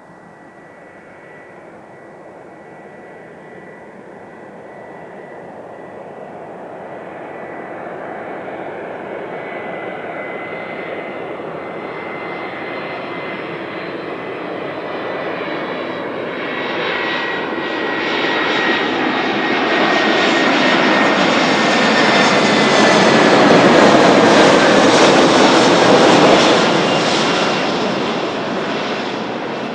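Airbus A320 jet airliner on landing approach, its engine sound building steadily as it nears, loudest a little past three-quarters of the way through, then starting to fade as it passes. A steady high whine runs over the engine noise and dips slightly in pitch as the aircraft goes by.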